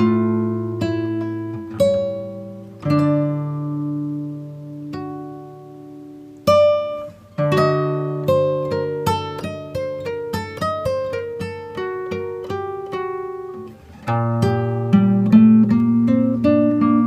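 Acoustic guitar background music: slow plucked chords left to ring, then a quicker run of picked notes, and fuller chords from about 14 seconds in.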